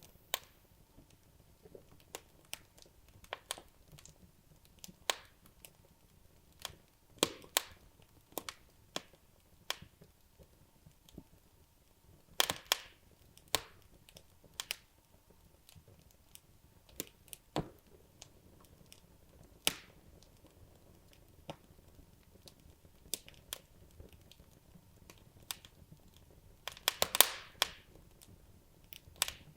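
Wood logs burning in a fireplace, crackling with irregular sharp pops. There are busier flurries of crackles about twelve seconds in and near the end.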